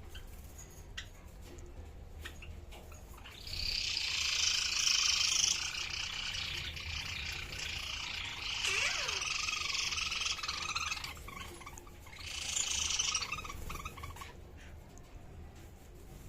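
Birds chirping and chattering in a dense, high-pitched burst lasting about seven seconds, then a shorter burst of chirping near the end.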